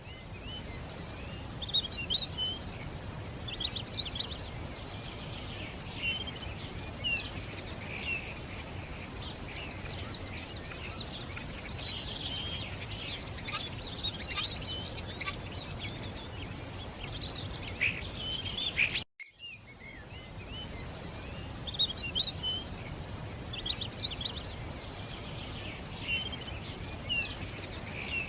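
Many small songbirds chirping and twittering over a steady background hiss. Near two-thirds of the way through, the sound cuts out for a moment and the same stretch of chirping starts over, as in a looped recording.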